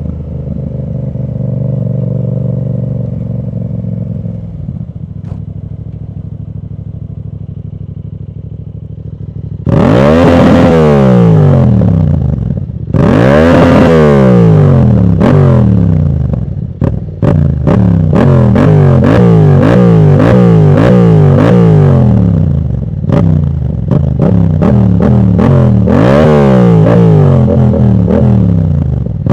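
Yamaha MT-07 parallel-twin engine, with a dB-killer baffle in its exhaust, idling for about ten seconds, then revved hard twice, then blipped repeatedly with quick rises and falls in pitch. Crackles and pops sound as the revs drop.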